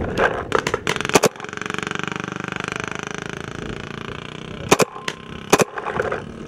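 Paintball markers firing: a quick string of shots, then a rapid, evenly spaced stream of fire for about three seconds, then two more single shots.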